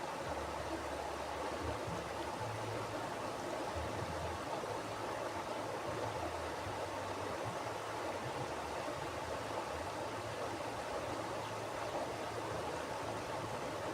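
Mountain river flowing: a steady rush of water, with a low rumble underneath that swells and fades.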